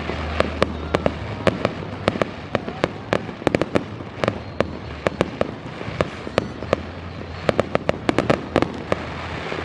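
Fireworks popping and crackling: rapid, irregular sharp reports, several a second, bunching into quick clusters.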